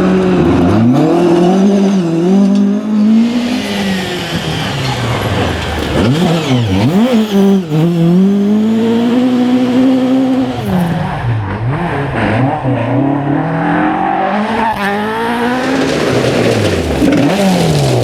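Rally car engine revving hard at full throttle, its pitch climbing and dropping again and again as it pulls through the gears and lifts for corners.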